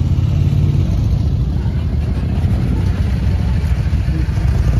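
Car engine running steadily at idle, a low rumble with no revving.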